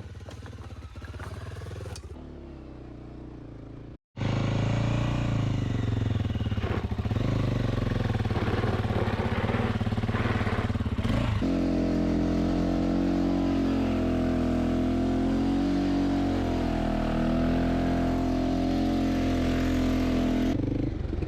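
Honda XR600R dirt bike's single-cylinder four-stroke engine running and revving, in short stretches that cut off abruptly about four and eleven seconds in; it is much louder after the first cut.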